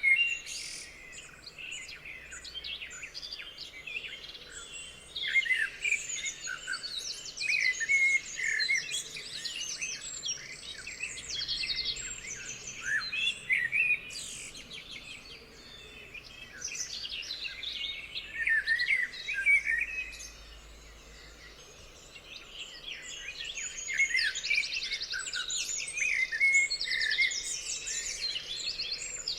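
Songbirds singing together in a dense chorus of quick whistled chirps and fast trills, with a short quieter lull about two-thirds of the way through.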